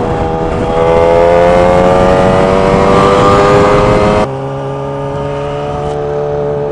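Motorcycle engine pulling hard under heavy wind rush, its pitch rising steadily for about four seconds. It then drops suddenly to a quieter, lower, steady drone.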